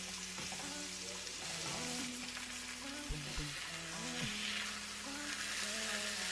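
Marinated chicken breasts sizzling in an oiled cast iron griddle pan, a steady frying hiss.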